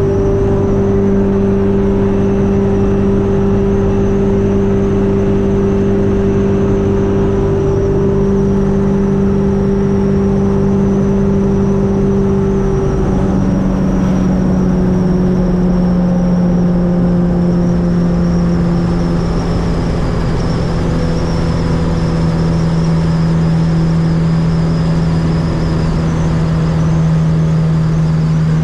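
Fiat 600 with a swapped-in 1.6-litre engine running steadily at motorway speed. About halfway through the engine note drops a little and then keeps easing lower as the revs fall.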